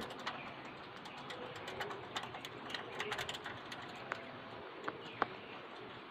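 Budgerigars chattering: a busy run of short chirps and clicks, with a sharper chirp about five seconds in.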